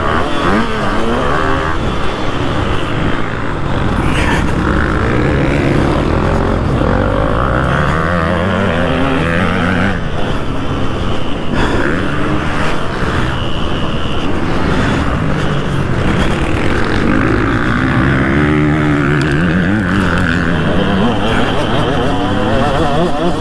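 2003 KTM 200 SX two-stroke motocross engine being ridden hard, its pitch rising and falling again and again as the throttle is opened and shut.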